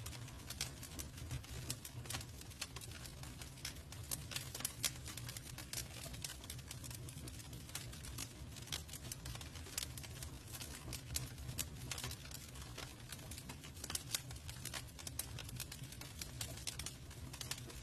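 Campfire crackling: many small irregular snaps and pops over a low steady rumble.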